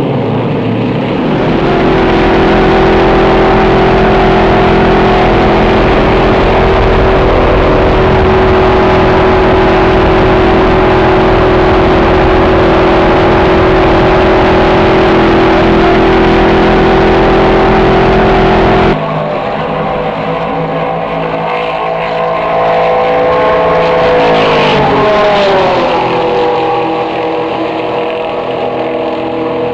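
Stock car's V8 engine running at steady high revs at speed. About two-thirds through the sound drops suddenly, and a few seconds later the engine's pitch winds down as it slows.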